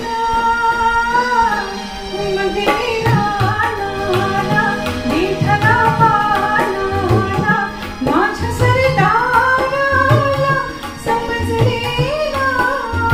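A woman singing a Marathi song, the melody held and bending, over instrumental accompaniment with tabla.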